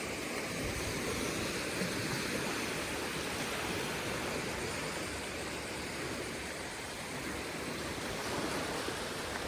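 Surf breaking and washing up a beach, a steady rush of wave noise.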